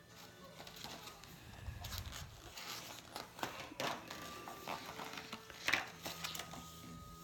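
Scattered rustling, crinkling and small clicks of something being handled, with a few sharper clicks about two, four and six seconds in.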